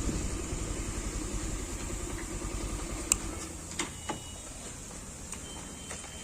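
A vehicle's engine runs low and steady, then fades out about three and a half seconds in, as if slowing to a stop and being shut off. It is followed by a few sharp clicks.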